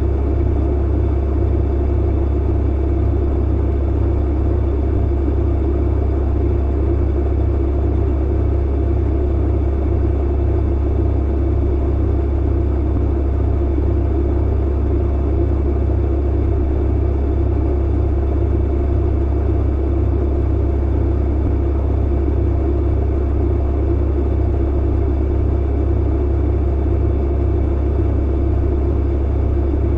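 Tumble clothes dryer running, a steady low rumble and hum that holds even and unchanging throughout.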